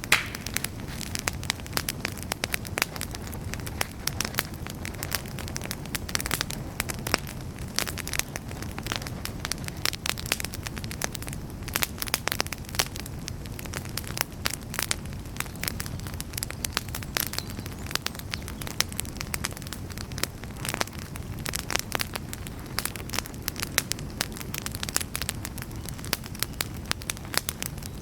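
Wood campfire burning steadily, with dense irregular crackles and pops over a low, steady rush of flame.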